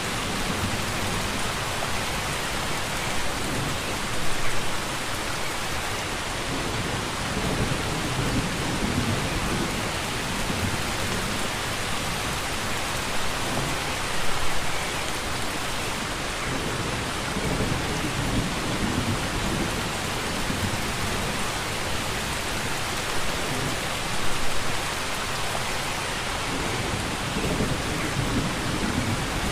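Steady rain falling, an even hiss with a low rumble underneath. It swells briefly three times, about ten seconds apart.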